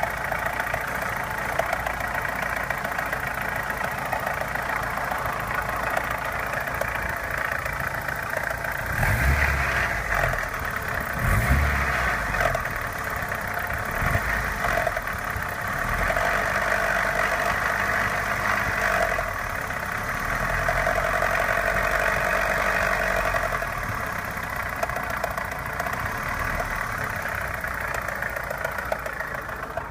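Opel Omega A 2.0 four-cylinder engine idling with a knock: the owner hears two knocks, one giving a diesel-like clatter and the other a lighter tapping, cause unknown. A couple of louder low thumps come around ten seconds in.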